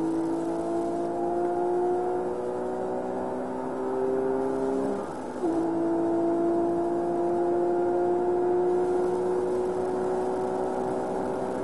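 Porsche 997 GT3 RS's flat-six engine at full throttle, heard from inside the cabin, its pitch climbing steadily as the car accelerates. About five seconds in, an upshift: the sound dips briefly, the pitch drops, then it climbs again in the next gear.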